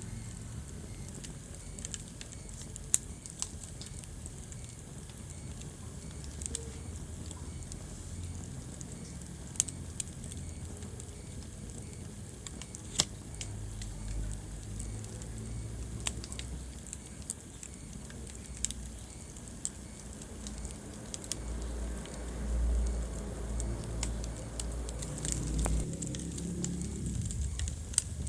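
Wood fire crackling in a fireplace: irregular sharp pops and snaps over a low rumble of burning.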